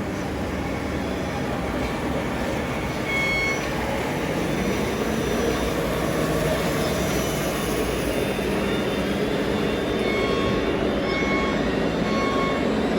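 Radio-controlled model trucks running in a convoy, a steady mechanical and rolling noise, with short high beeps now and then, more often near the end.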